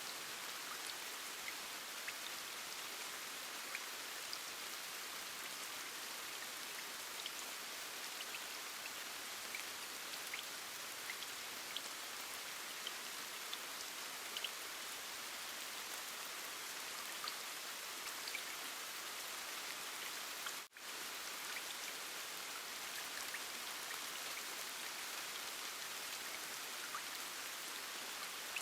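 Steady rain: an even soft hiss with scattered faint drops ticking. It cuts out for a split second about two-thirds of the way through.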